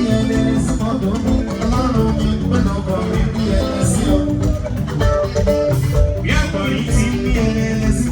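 Band music led by plucked guitars, playing continuously.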